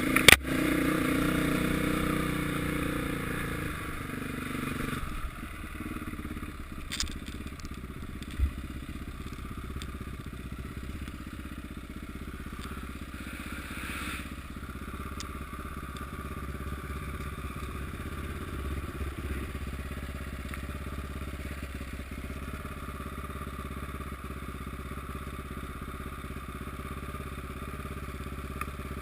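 Motocross motorcycle engine, loud at first and fading away over the first few seconds, then a steady low rumble with a few sharp knocks.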